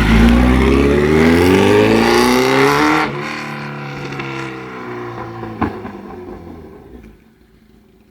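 Kawasaki ZX-10R inline-four engine running with no exhaust silencer, loud and revving up for about three seconds. It then drops suddenly and fades away, its pitch falling as it goes.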